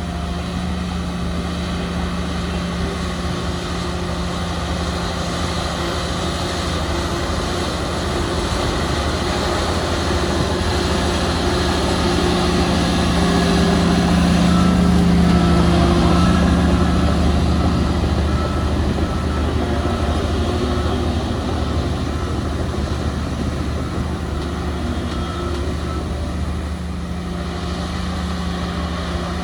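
Diesel engines of heavy earthmoving machinery running steadily. The sound swells louder about halfway through and then eases off again.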